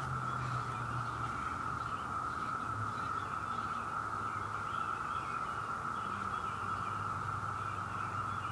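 Steady outdoor background: an even, unbroken high drone holding one pitch, with faint scattered chirps over it.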